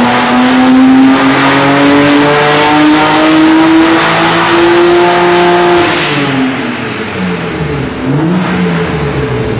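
BMW 135i twin-turbo inline-six, with catless downpipes and a cat-back exhaust, pulling hard on a dyno, its pitch climbing steadily. About six seconds in the throttle closes with a hiss and the revs drop, then the engine is revved up and down twice more, with a short hiss at each lift.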